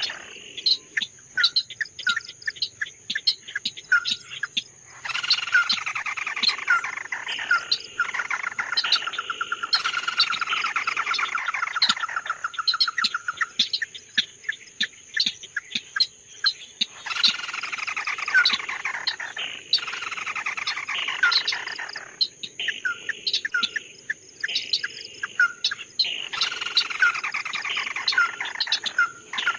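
A songbird known in Vietnamese as 'chim mắt đỏ' (red-eye bird) singing in long, rapid phrases of repeated sweeping notes, three times, with short spells of scattered single chirps between the phrases.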